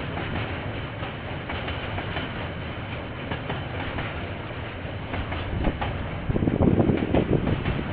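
KiwiRail train rolling past, its wheels clicking over the rail joints in an uneven run of knocks, louder for a moment near the end.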